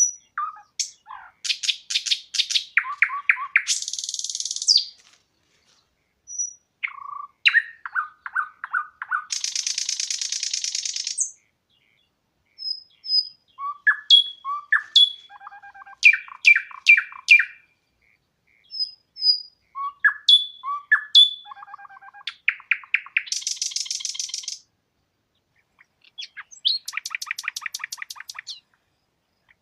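A songbird singing the same kind of phrase over and over, about every six seconds. Each phrase is a quick run of clear notes that ends in a buzzy trill.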